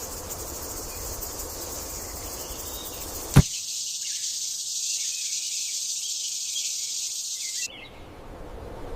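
Steady, high-pitched chorus of insects. It starts abruptly with a sharp click about three and a half seconds in and cuts off suddenly near the end. Before it there is a soft, even rushing background.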